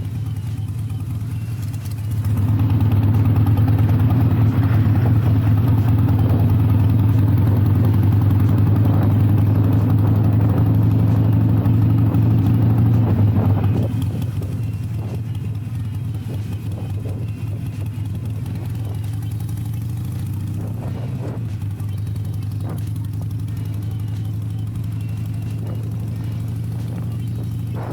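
Harley-Davidson Iron 883's air-cooled V-twin running under way through Rinehart slip-on exhausts, a steady low engine note. It gets louder about two seconds in, holds, and drops back to a quieter run about halfway through.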